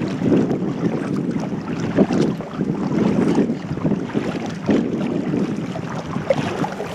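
Wind buffeting the microphone, with kayak paddle strokes swishing and splashing in the water.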